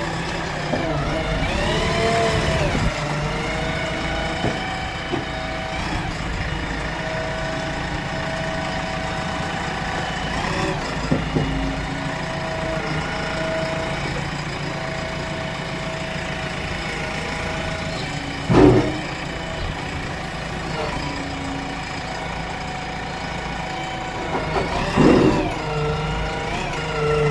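A heavy machine's engine running at idle, its pitch shifting a little now and then, with two sharp knocks, one about two-thirds of the way in and another near the end.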